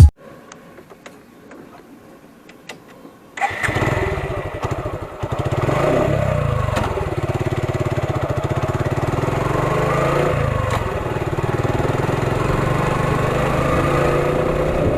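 Motorcycle engine starting up about three seconds in, then running steadily with a fast, even pulse.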